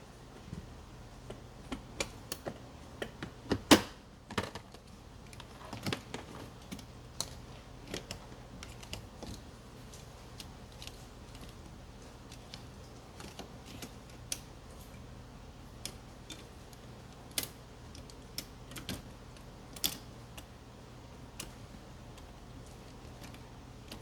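Irregular light clicks and knocks of tools and parts being handled, with one sharper knock about four seconds in, over a steady low hum.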